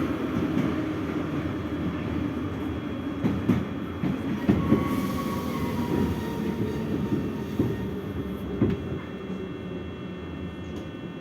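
Moscow Metro 81-717/714 train running through the tunnel: a steady rumble with sharp clicks of the wheels over rail joints, and a faint thin squeal about five seconds in.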